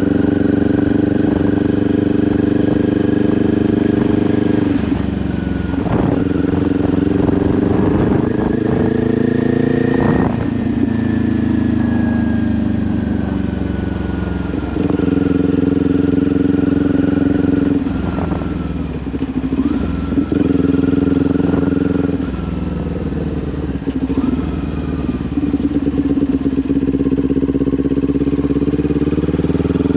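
Kawasaki Ninja 400's parallel-twin engine through an SC-Project aftermarket exhaust, under way. Its pitch climbs and drops over and over with throttle and gear changes, and it winds down in a long fall for a few seconds after about ten seconds in.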